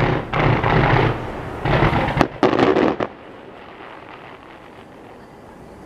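Star mine fireworks: a rapid volley of aerial shell bursts in several close clusters, with one sharp crack near the middle. The volley stops about three seconds in.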